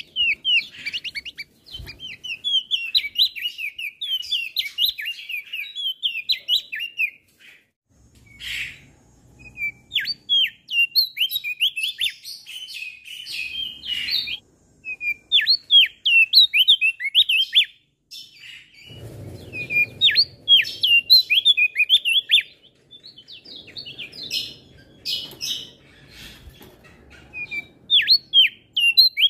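Male crested white-eye (opior jambul) singing in long runs of rapid, high chirping notes, with short pauses between phrases. A faint low rumble sits under the song in the second half.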